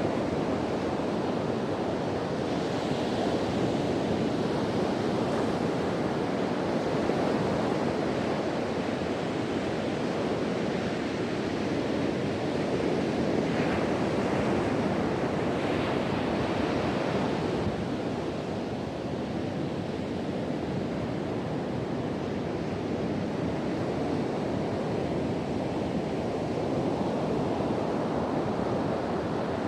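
Ocean waves breaking and washing on a beach, a continuous surf rush that swells now and then as a wave breaks, with wind buffeting the microphone.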